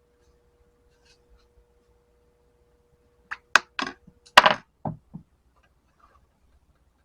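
A quick run of about six sharp knocks and clacks of hard objects striking each other, packed into about two seconds just before the middle, the loudest near the middle.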